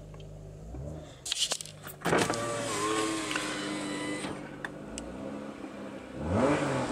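2004 Acura TL's V6 breathing through an RV6 J-pipe and Comptech exhaust, running cold and given only light revs, with a rev that rises and falls near the end.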